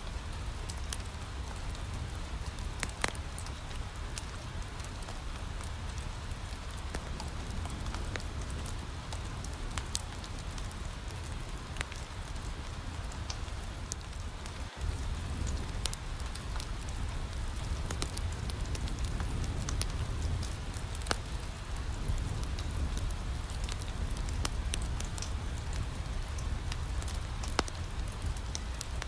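Steady rain pattering on a window, mixed with a wood fire crackling in a fireplace in scattered sharp pops, over a low rumble. The sound cuts out for an instant about halfway through, then carries on a little louder.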